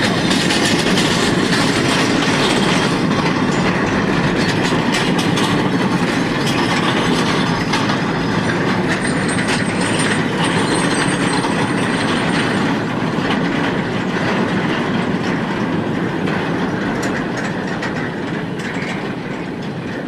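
A very long train's wagons rolling steadily past on the rails, the noise easing off gradually over the last several seconds.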